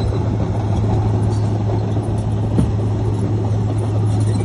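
Heavy earthmoving machine's diesel engine running steadily with a low hum, and one short knock a little past halfway.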